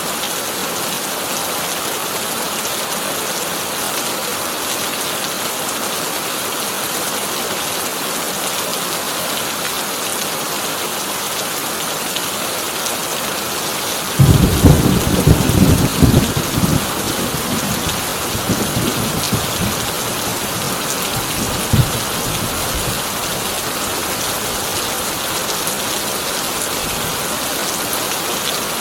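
Heavy rain falling steadily on a tin roof. About halfway through, a sudden loud thunderclap breaks in and rumbles for two or three seconds, with a last sharp crack a few seconds later.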